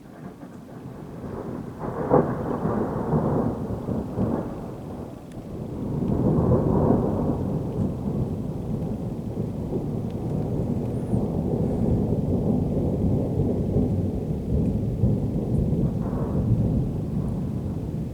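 Long roll of thunder: it builds from quiet, cracks about two seconds in, swells again around six seconds and rumbles on steadily, with another surge near the end.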